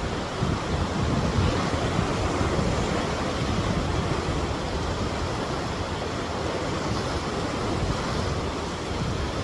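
Whitewater rapids of the Niagara River's Whirlpool Rapids, a steady rushing roar of churning water with low rumble, mixed with some wind on the microphone.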